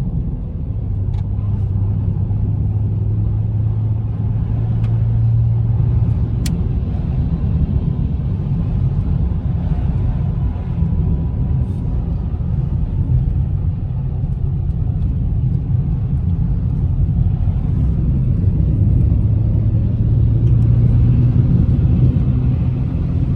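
Inside a moving car: a steady low road rumble and engine drone, the hum swelling for a few seconds near the start and again near the end.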